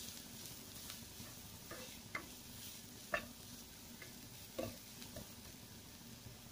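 Faint sizzle of crushed coconut and onion frying in coconut oil in a non-stick pan, with a spatula stirring it and scraping or tapping against the pan a few times.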